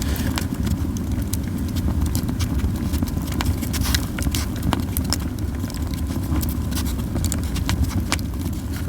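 Japanese yew firewood burning in a campfire, crackling with many irregular sharp pops over a steady low rumble.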